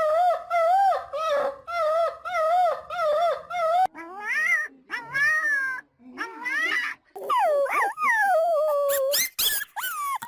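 A dog vocalizing: a run of short, wavering whine-howls about two a second, then longer howls that rise and fall, with a few sharp yelps near the end.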